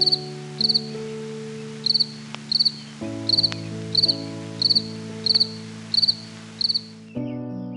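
Cricket chirping: about ten short pulsed chirps at a steady pace of roughly one and a half a second, stopping near the end. Soft sustained background music chords play underneath.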